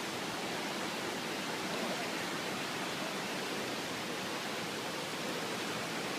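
Steady rush of a fast-flowing river current, an even, unbroken noise of moving water.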